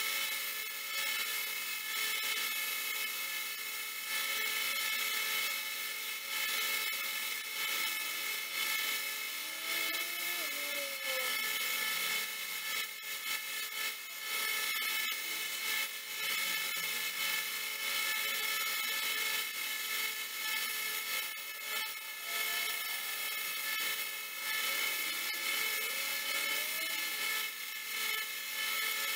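Belt sander running steadily with a continuous whine while a knife blade is ground and polished against the belt; the pitch shifts briefly a few times as the blade presses on the belt.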